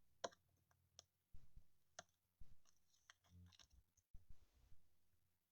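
Faint clicks and soft taps from trading cards being handled and shuffled, about one a second with a small flurry around the middle.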